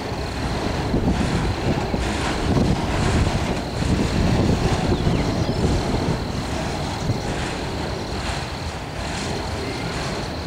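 Autorack freight cars rolling slowly past: a steady rumble of steel wheels on rail, swelling somewhat a few seconds in.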